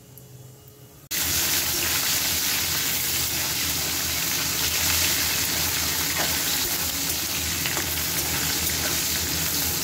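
Potato slices and tomato pieces frying in hot oil in a wok: a steady, loud sizzle that starts abruptly about a second in.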